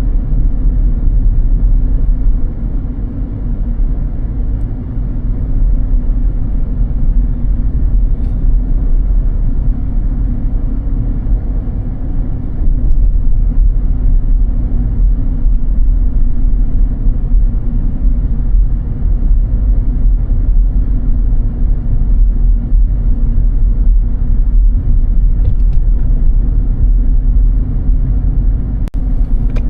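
A car driving with a steady low rumble of engine and tyre noise.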